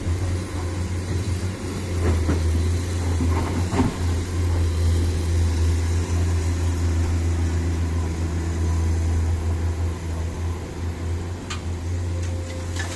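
Dump truck engine running with a steady low drone, with a few faint clicks about two and four seconds in.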